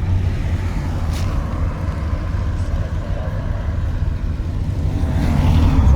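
A car engine running close by with a steady low rumble, growing louder about five seconds in.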